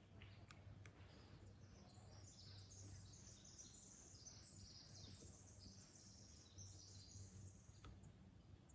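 Faint, high-pitched songbird song, a long rapid run of notes that starts about two seconds in and lasts about five seconds, over a quiet forest background with a low steady hum.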